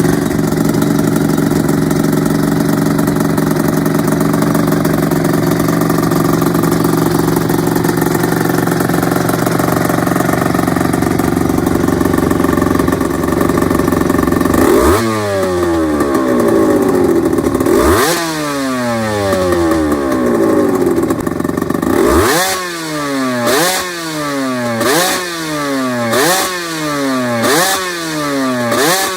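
Honda NSR250R's two-stroke V-twin on ETHOS expansion chambers idling steadily, then revved with throttle blips. There are two single blips, then from about two-thirds of the way through a run of quick blips about one every second and a bit, each rising sharply and falling back to idle.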